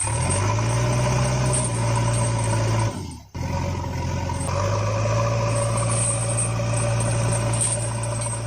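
Engine idling with a steady low hum. It breaks off for a moment about three seconds in, then runs on.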